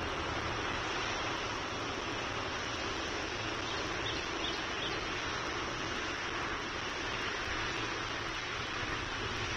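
Steady outdoor background roar picked up by a nest camera's microphone, even throughout with a low hum underneath, and a few faint high chirps about four seconds in.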